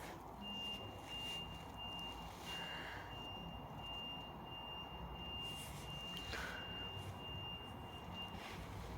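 High-pitched electronic beeping, a quick run of short, evenly repeated beeps for about eight seconds, stopping shortly before the end. A few soft rustles are heard alongside.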